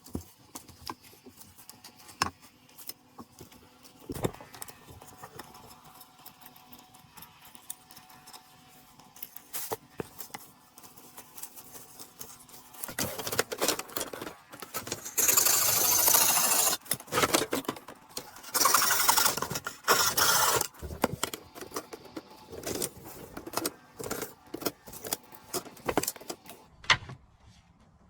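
Handling noises: scattered clicks and knocks, with two loud stretches of rustling and scraping around the middle.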